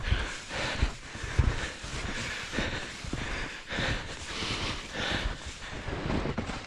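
Footsteps through snow with heavy breathing, irregular thumps and hissy breaths about twice a second, and wind bumping the microphone.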